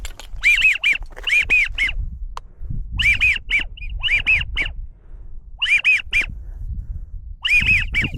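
American wigeon whistling: about six bursts of two or three short, clear, arched whistle notes, spaced a second or so apart.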